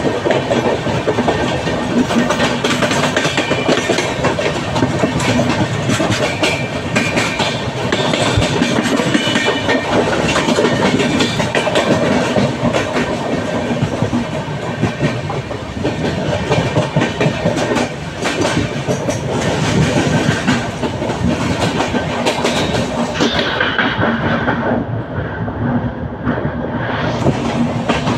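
Train running along the track, its wheels clattering over the rail joints in a steady clickety-clack with a continuous rumble. For a few seconds near the end the sound turns duller, losing its highest hiss.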